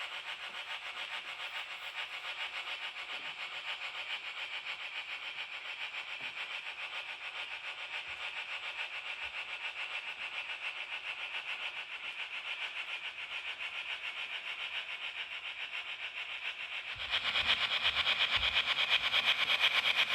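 Model train running on the layout: a steady whir of its small motor and wheels on the rails, which grows clearly louder about three-quarters of the way through, with a few low knocks after that.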